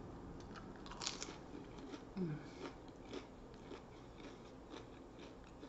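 Close-up biting and chewing of a crispy panko-breaded onion ring. One loud crunch comes about a second in, followed by smaller crackly crunches as it is chewed.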